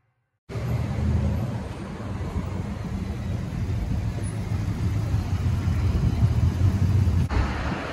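A Cobra-style roadster's engine running with a deep, steady rumble as the car drives slowly past, starting abruptly about half a second in. Near the end it cuts to lighter road noise from another passing car.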